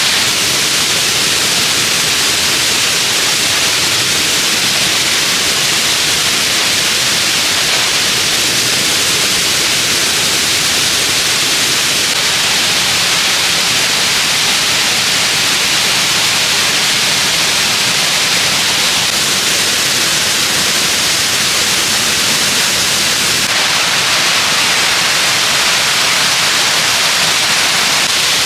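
Waterfall: rushing, falling water making a steady, loud hiss.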